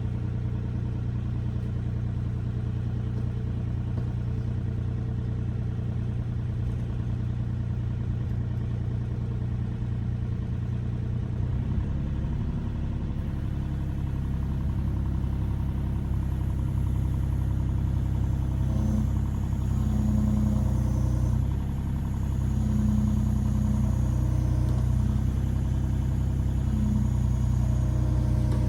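Mini excavator's diesel engine running steadily. It shifts about halfway through and gets a little louder, with short whines coming and going near the end.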